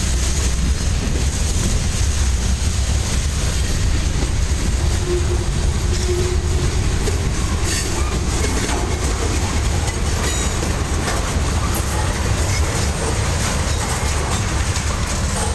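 Freight train cars, boxcars and then tank cars, rolling past close by: a steady rumble of steel wheels on the rails with occasional clicks.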